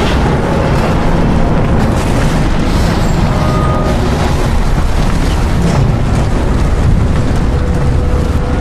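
Ship-breakup sound effect for the Titanic's steel hull: a loud, continuous deep rumble with scattered sharp cracks.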